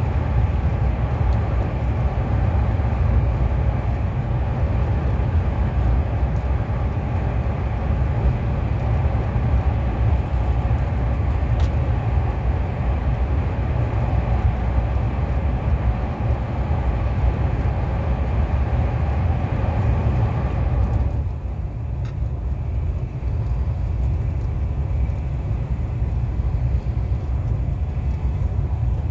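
KTX high-speed train running at speed, heard from inside the passenger cabin as a steady deep rumble with a rushing noise over it. About two-thirds of the way through, the higher rushing part falls away and the rumble goes on.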